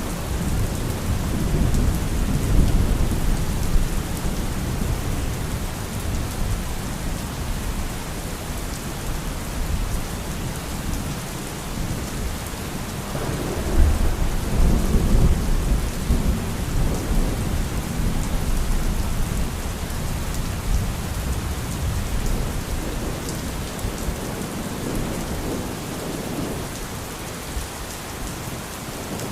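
Thunderstorm: steady rain with rolling thunder rumbling low, swelling again about halfway through and easing off near the end.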